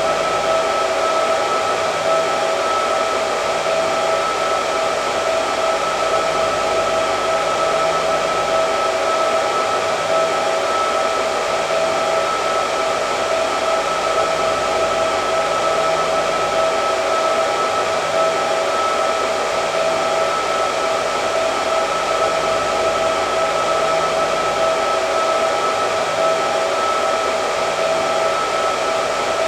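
Hair dryer running steadily: an even rush of blowing air with a constant motor whine.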